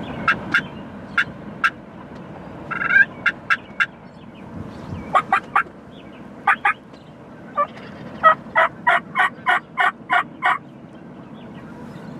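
Wild turkey calling: scattered short, sharp notes, then near the end a run of about ten quick, evenly spaced yelps.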